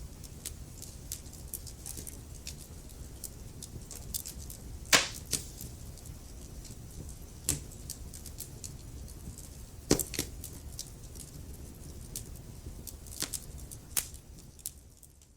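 Wood fire crackling in a fireplace: a low steady rumble of burning under scattered sharp pops and snaps, the loudest about five seconds in and another near ten seconds. The sound fades out near the end.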